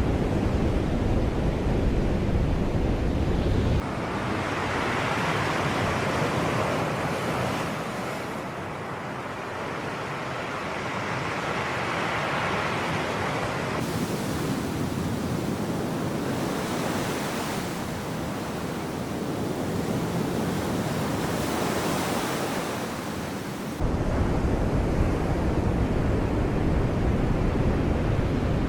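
Sea waves breaking and washing in, swelling and fading every few seconds. A heavy wind rumble on the microphone covers the first few seconds, stops abruptly, and returns just as abruptly near the end.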